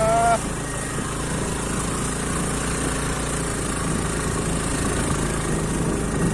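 Motor vehicle engine running steadily on the move, with road and wind noise.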